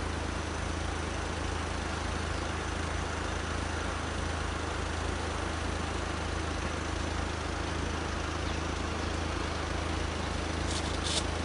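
A steady engine hum with an even rush of noise, unchanging throughout, and a few faint clicks near the end.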